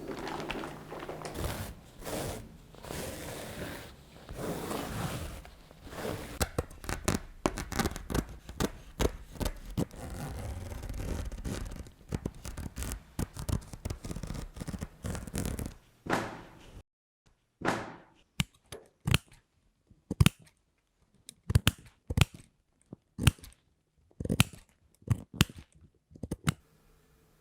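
Hand cutting and handling noise on a tufted rug: a dense run of scraping, rustling and clicking for about sixteen seconds. Then come separate sharp clicks, like scissor snips, every second or so.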